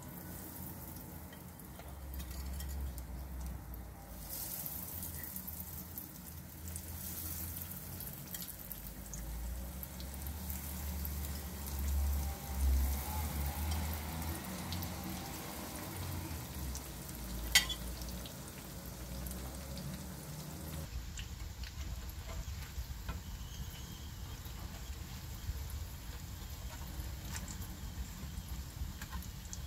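Breaded zucchini slices sizzling as they fry in shallow oil in a nonstick pan. A single sharp click stands out about two-thirds of the way through.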